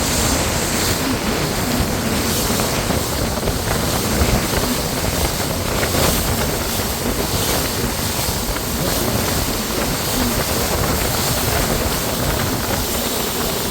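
Steady wind buffeting the microphone over the continuous rush of a moving boat on open water.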